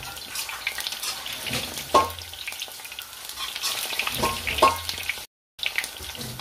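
Battered aubergine slices frying in shallow oil in a grill pan, a steady sizzle and crackle. A few knocks on the pan sound over it, the loudest about two seconds in and two more close together near the end.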